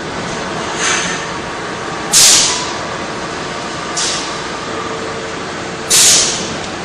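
Sewer jetting equipment running steadily as it clears a line of roots, with a hissing surge of spray about every two seconds.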